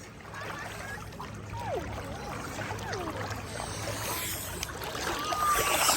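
Lakeshore ambience: water sounds with a few faint distant voices.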